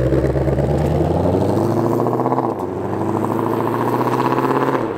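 Ford Mustang Shelby GT500's supercharged V8 under hard acceleration, its pitch climbing from about a second in. A quick dual-clutch upshift drops the revs about halfway through, the pitch climbs again, and another shift comes near the end.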